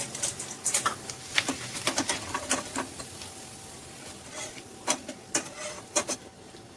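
Dry potato sticks frying in hot oil in a kadai: irregular sharp crackles and clicks over a faint hiss, thick in the first few seconds and sparser later, from the oil and from the wire spider strainer scooping the sticks out.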